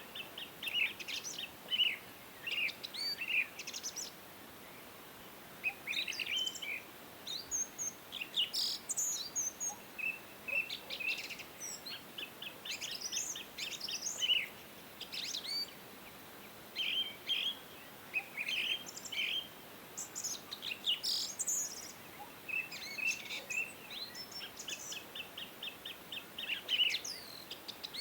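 Several wild birds chirping and singing, short chirps and quick trills overlapping with brief pauses, over a faint steady background hiss.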